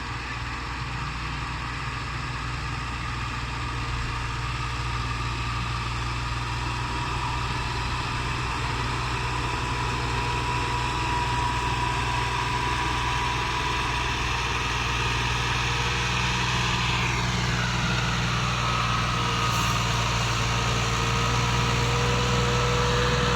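Massey Ferguson 260 tractor's diesel engine running steadily, getting gradually louder. A higher tone slides down in pitch about two-thirds of the way through.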